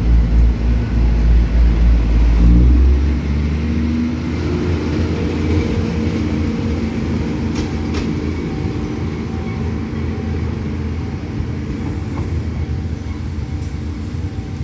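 Diesel passenger train pulling away: its engine throbs loudly for about the first three seconds, then gives way to a steadier rumble of the train rolling on the rails that slowly fades as it moves off.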